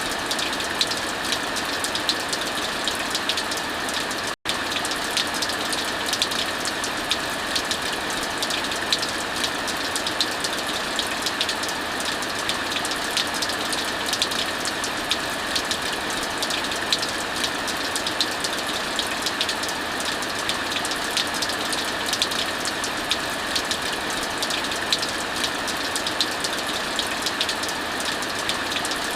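Steady heavy rainfall mixed with a wood fire crackling, with many small sharp pops throughout. The sound cuts out for an instant about four seconds in.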